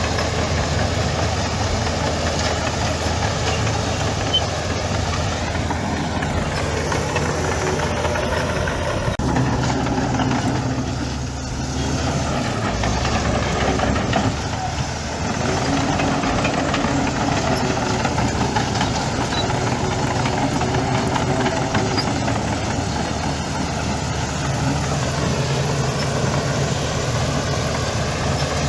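Heavy diesel engine of earthmoving machinery running continuously, its engine speed shifting up and down several times.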